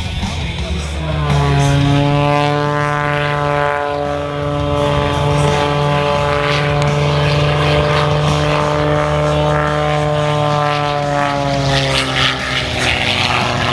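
Propeller airplane engine passing close by: a steady, pitched drone whose pitch drops soon after it comes in, then slides gently lower before it fades out near the end.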